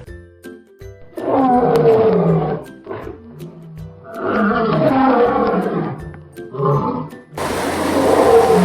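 Loud calls of a large animal, four in a row, each one to two seconds long. The last is heard over a steady hiss.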